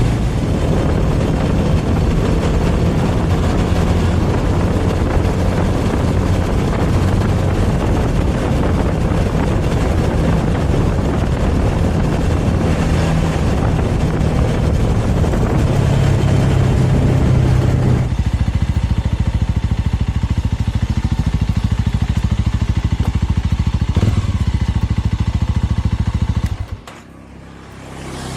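Motorcycle on the move, recorded from the bike: steady engine note under heavy wind rush. About two-thirds of the way in the sound turns duller and softer as the bike eases off, then it cuts off suddenly near the end.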